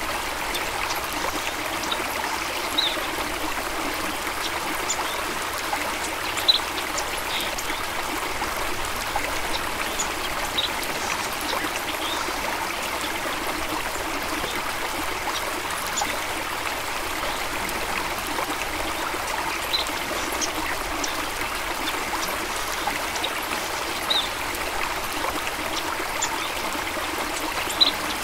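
Small stream flowing steadily, water trickling and burbling, with brief high plinks of water every second or two.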